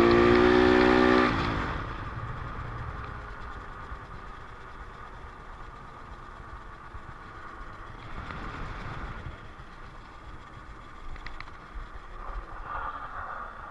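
Dirt bike engine held at high revs, its pitch creeping slightly upward, then backing off about a second and a half in. After that the engine runs much lower and quieter, with a steady low rumble.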